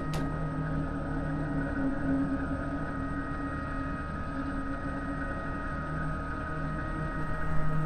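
Steady drone of several held tones, low and mid, continuing without a break, with a brief click at the very start.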